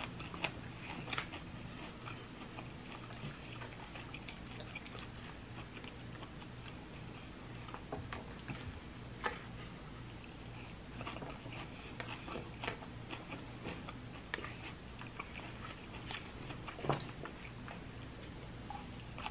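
Close-up chewing and crunching of leafy salad greens: a string of soft crunches and wet mouth clicks, with a sharper crunch about nine seconds in and another near the end, over a low steady hum.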